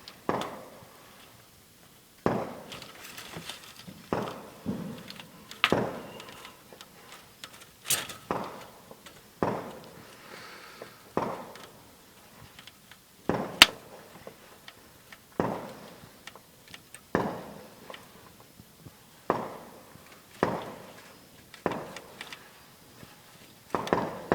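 Fireworks going off in a steady run of bangs, about one a second, each fading out with an echo; the sharpest cracks come about a third of the way in and a little past halfway.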